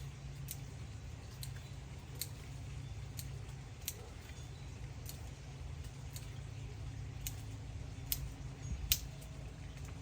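Hand pruning shears snipping, about ten sharp, irregular clicks roughly a second apart, over a steady low rumble.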